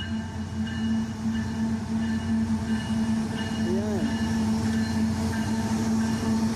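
CN freight train passing eastbound, its diesel locomotives giving a steady low drone, with short high-pitched tones coming and going over it.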